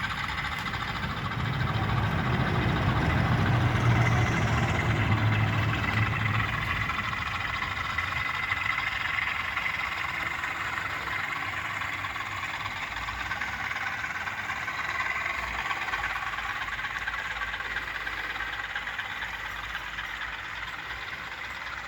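British Rail Class 20 diesel locomotives working a container train. The engine throb is loudest a few seconds in, then fades under a steady rolling rumble.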